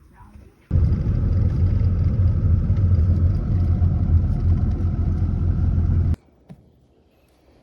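Road vehicle driving, a steady low rumble of engine and road noise that cuts in abruptly about a second in and stops abruptly near the end.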